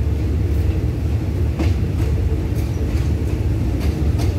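Diesel commuter train rolling slowly, heard from on board: a steady low rumble, with a sharp wheel clack over the rail joints about one and a half seconds in and again near the end.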